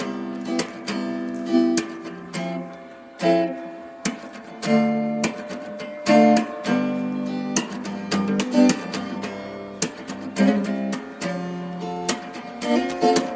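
Background music played on acoustic guitar, strummed and plucked chords changing about once a second.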